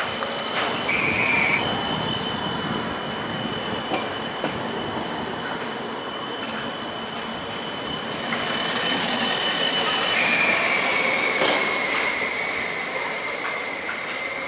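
Tram running on its rails with wheel squeal: a short high squeal about a second in, then a longer one from about ten seconds that sinks slightly in pitch, over a steady rolling noise and faint high whines.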